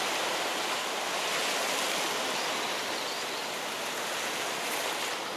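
Sea surf washing against the shore rocks: a steady rushing of water.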